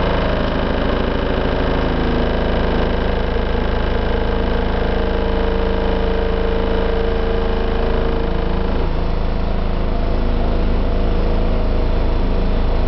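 A heavy construction vehicle's engine runs steadily over a deep, continuous rumble, the rumbling of road-construction machinery working the roadway. Its higher engine tone fades about nine seconds in, while the low rumble carries on.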